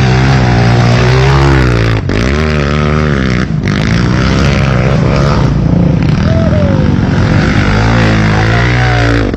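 Trail motorcycle engine revving hard and unevenly, its pitch rising and falling over and over, with two brief drops in power about two seconds and three and a half seconds in.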